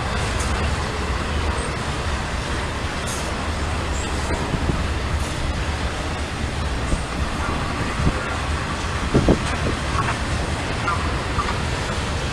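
Freight train rolling past with a steady low rumble of wheels on rail, and a couple of short knocks about eight and nine seconds in.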